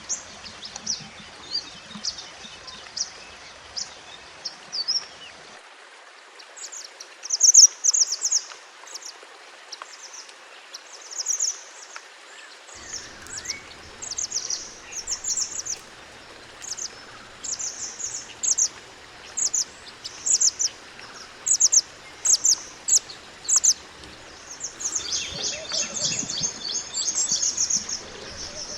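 Mantenan gunung, a pied bushchat, singing high, short chirps over and over in quick phrases, breaking into a denser run of notes near the end, over a steady faint hiss.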